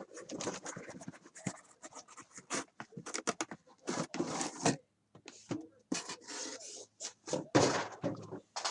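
Sealed trading-card boxes and their cardboard and plastic packaging being handled and slid out: irregular rubbing, scraping and light tapping, with a short pause about halfway through.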